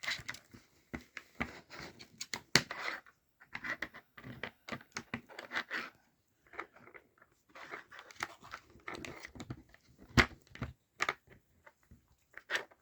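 Dog nosing, pawing and biting at a Nina Ottosson Rainy Day plastic treat puzzle: an irregular string of short clicks, knocks and scrapes as the pieces are pushed about, the sharpest knock about ten seconds in.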